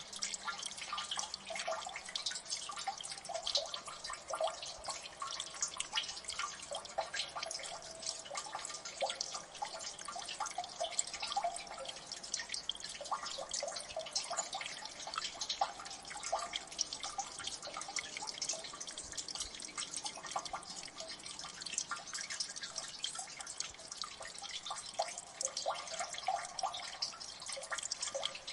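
Water dripping and plinking in a gully: many small drops falling in quick, irregular succession, some with a short pitched plink, over a steady light trickle.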